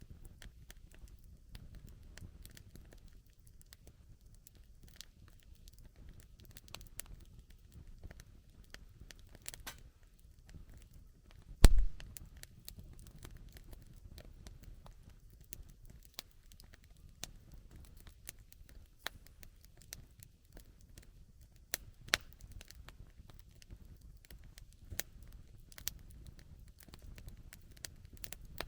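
Wood campfire burning, crackling with irregular sharp pops and snaps over a low steady rumble. One much louder crack about twelve seconds in.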